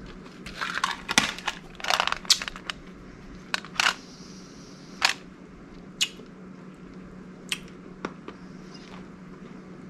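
Crunching and chewing a small hard tangerine-orange mint, with clicks from its hinged metal tin being closed. A dense run of crunches and clicks fills the first three seconds, then single clicks and mouth smacks follow every second or so.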